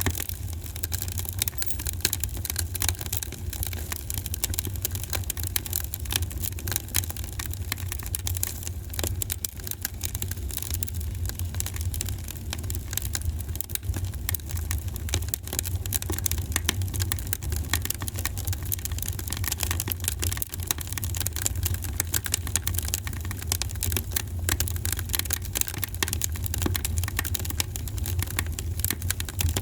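Wood fire crackling in a fireplace: a dense, irregular run of small pops and snaps over a steady low rumble.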